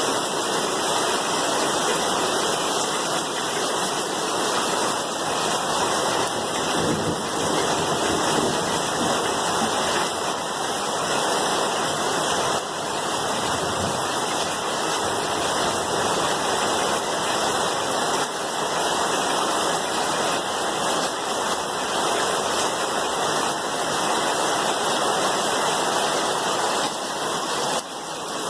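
Steady rain, a dense even hiss of falling water that does not let up.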